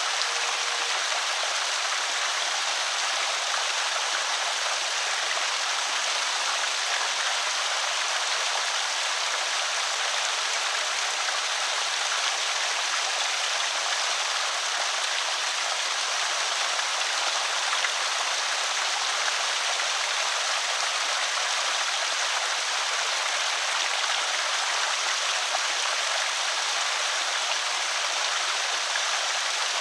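Water pouring steadily over a small creek spillway: an even, unbroken rush and splash.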